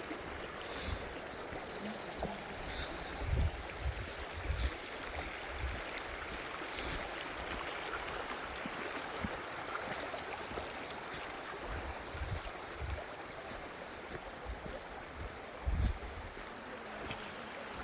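Steady rushing of flowing water, with occasional low thumps.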